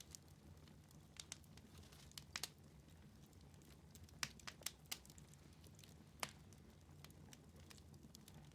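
Wood fire in a fireplace crackling faintly: irregular sharp pops and snaps over a low steady rumble, with a cluster of louder pops about four to five seconds in and another about six seconds in.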